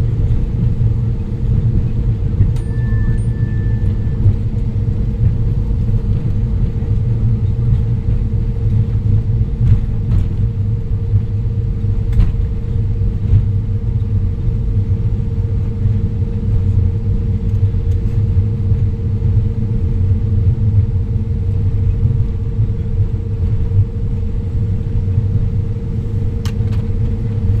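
Steady cabin rumble inside a jet airliner during landing: engine and airflow noise with a constant hum. A brief high tone sounds about three seconds in.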